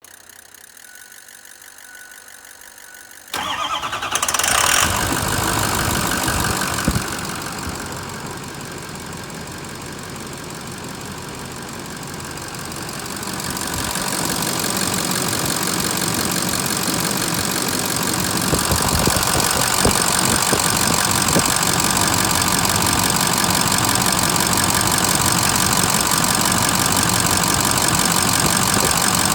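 Ford 6.0L Power Stroke V8 turbodiesel starting about three seconds in, flaring briefly, then settling to idle. About 13 seconds in the idle rises and holds steady.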